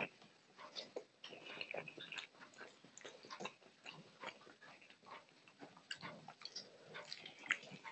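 A person eating rice and curry by hand, close to a lapel microphone: soft, irregular chewing and mouth clicks, with the light squish of fingers kneading rice and dal on a steel plate.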